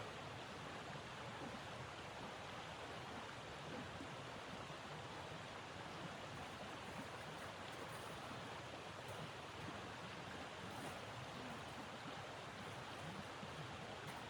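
Steady rushing of blizzard wind, an even, unbroken noise.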